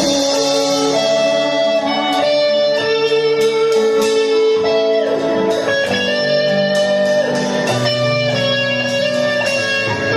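Band music led by an electric guitar playing held notes, some of them bent in pitch.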